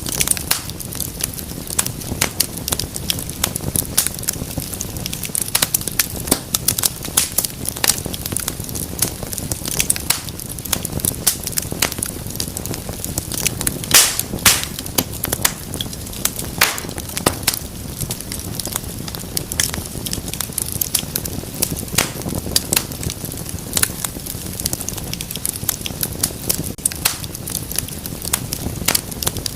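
Wood fire crackling and popping: dense, irregular snaps over a steady low rush of flame, with a louder pop about halfway through.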